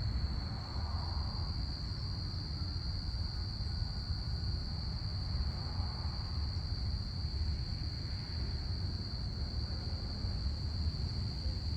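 Crickets chirping in a steady, unbroken high-pitched chorus over a low, steady rumble.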